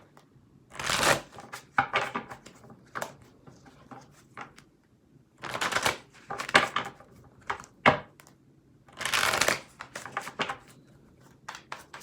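Tarot cards being shuffled and handled: several short bursts of riffling card noise with soft clicks and taps between them.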